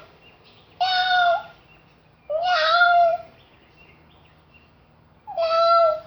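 Cat meowing three times, each a drawn-out call held at a steady pitch.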